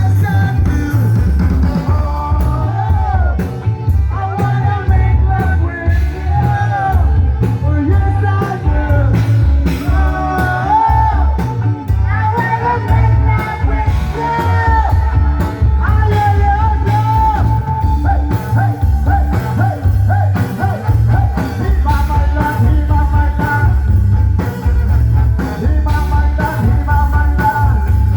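Live band playing a song with a singer over loud, driving bass and drums.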